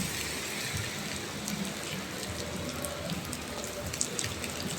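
Steady rain falling, with scattered sharp ticks of single drops striking close by, the clearest about four seconds in.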